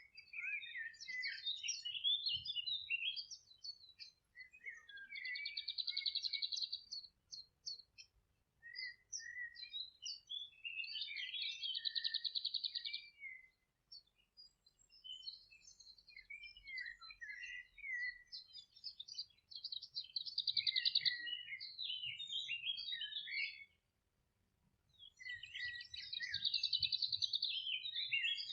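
A songbird singing a series of song phrases, each a few seconds long and separated by short pauses, most of them holding a fast trill.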